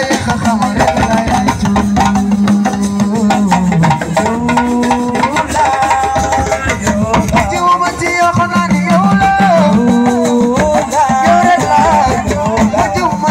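Senegalese assiko band playing an instrumental stretch: a stepping melody with a moving low line over busy, steady drumming.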